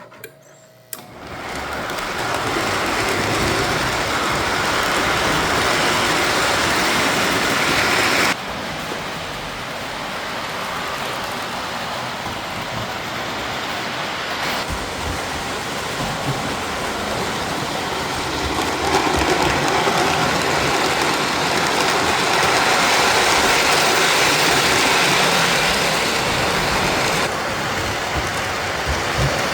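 O-gauge model trains running on layout track: a steady rush of wheels and motors on the rails. The level drops abruptly about eight seconds in and shifts again around fifteen and twenty-seven seconds.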